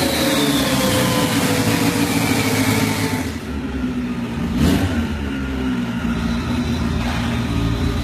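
Turbocharged Honda B18 four-cylinder on a chassis dyno winding down after a pull, its revs falling steadily for about three seconds. About four and a half seconds in comes a quick throttle blip, and then it settles to a steady low idle.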